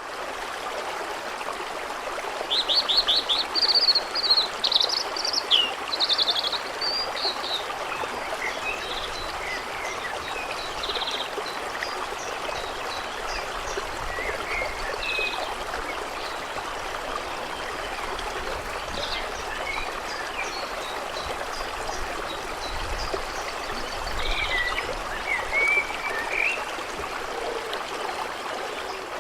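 Steady rush of a flowing stream with songbirds chirping and trilling over it, busiest in the first few seconds and again near the end.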